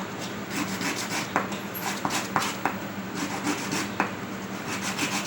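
Sandpaper rubbed by hand over a plastic capsule made from PET bottle necks, in a run of short, irregular rasping strokes to smooth the glued joint.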